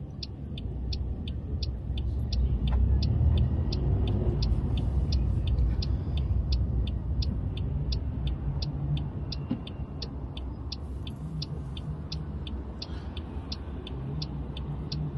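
Car engine and road noise from inside the cabin, a low rumble that swells and eases, with the turn indicator ticking steadily about three times a second.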